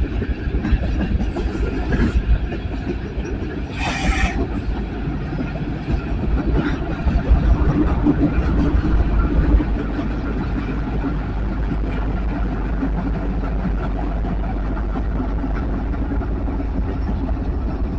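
Coal train running on the line: a steady low rumble of the locomotives and rolling cars, with a short hiss about four seconds in.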